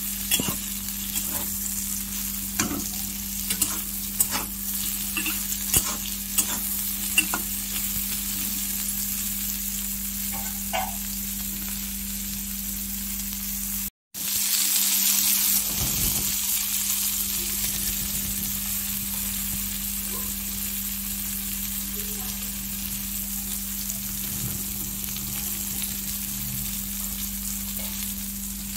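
Sliced bitter gourd sizzling steadily in hot oil in a wok, over a steady low hum. There are scattered sharp clicks and pops in the first half. The sound drops out for a moment about halfway, then the sizzling comes back briefly louder and settles.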